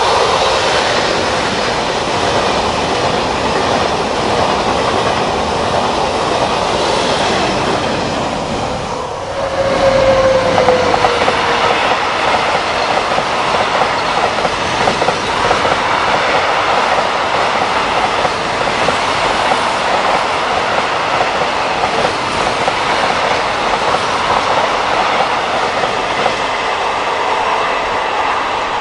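A TGV Duplex high-speed train passing at speed, then, after a cut, a long freight train of tank wagons rolling past with steady wheel-on-rail noise. A brief tone sounds about ten seconds in.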